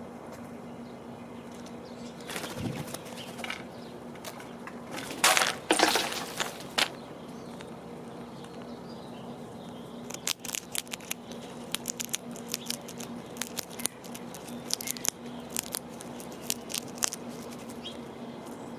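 An animal lands heavily on a bird feeder with a few loud rushes and thuds, then munches seed or nuts close to the microphone. The munching is a long run of sharp crunching clicks, a few each second.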